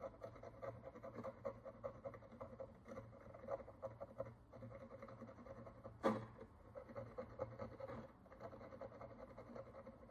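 Faint scratching and picking of a fine tool on the encrusted surface of a bronze coin, a dense run of small scrapes and ticks, with one sharp click about six seconds in.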